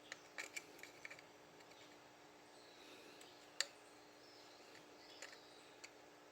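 Near silence, broken by a few faint clicks and light taps of parts or tools being handled, with one sharper click about three and a half seconds in.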